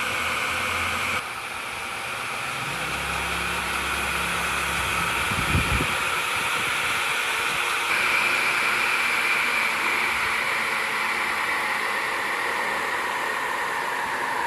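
Electric motor of a restored 3-in-1 woodworking machine running at steady speed with a steady whine. The sound changes abruptly twice, and there is a short low thud about halfway through.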